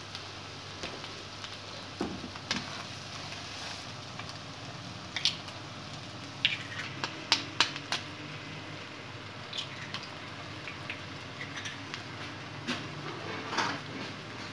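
Oil sizzling steadily under an egg bhujia masala in a wok, with scattered sharp pops and crackles, several close together in the middle.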